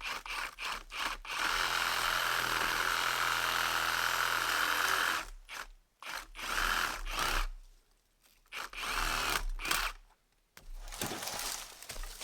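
Battery-powered Milwaukee saw running and cutting wood: a few short blips, one steady run of about four seconds, then three shorter bursts.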